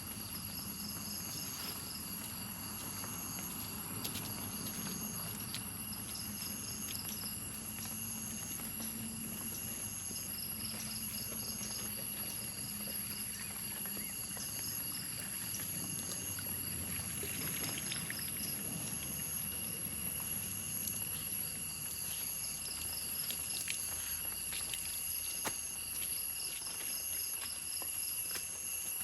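Forest insects calling: a steady high buzz under a pulsing chirp that repeats about every second or so, with scattered light taps.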